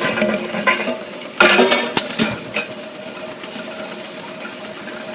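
Automatic labelling machine running with a steady mechanical hum, a loud clack about one and a half seconds in, then a couple of lighter clicks.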